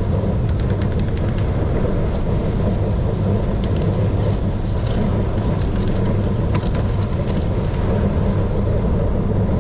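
Wind rushing over the microphone and bicycle tyres rolling on a fast downhill ride: a steady, loud rumble with scattered small clicks and rattles.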